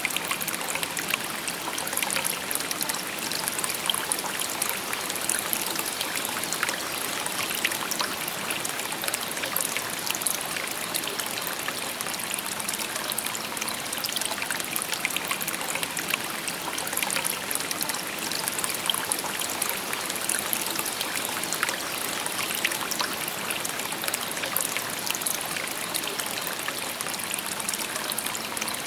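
Shallow stream babbling over stones, a steady murmur of water with many small trickling splashes.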